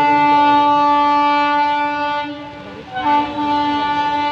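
WAP7 electric locomotive's horn sounding two long blasts with a short break between them, the second starting about three seconds in, as the train nears the level crossing.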